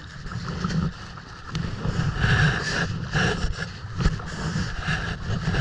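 Wind rumbling on the microphone over water sloshing around a kayak, with a couple of sharp knocks.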